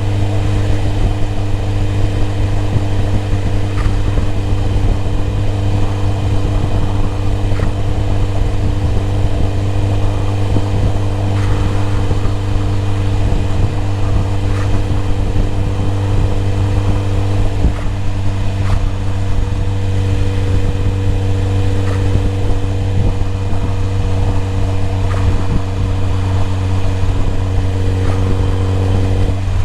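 BMW E30 M3's S14 four-cylinder engine idling steadily.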